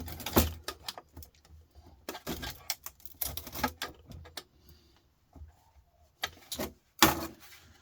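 Irregular clicks and knocks of a desktop computer power supply's metal case being handled and prried at to get it open, with louder knocks about half a second in and about seven seconds in.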